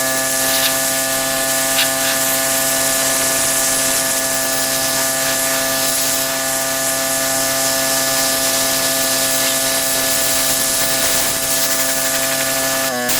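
Pressure washer running steadily, its motor giving a constant hum under the hiss of the water spray. The motor's pitch sags briefly near the end.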